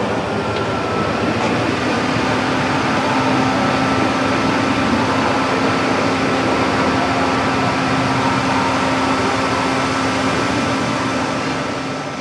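Steady, loud mechanical rushing noise with a constant low hum, beginning to fade near the end.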